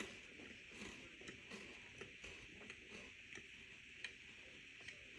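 Faint chewing of a crunchy Kit Kat wafer bar: soft, irregular little clicks and crunches over a steady low hiss.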